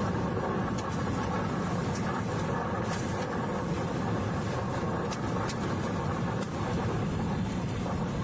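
Tornado winds buffeting a car, heard from inside the cabin as a steady, dense rushing noise, with a few sharp ticks of flying debris striking the car.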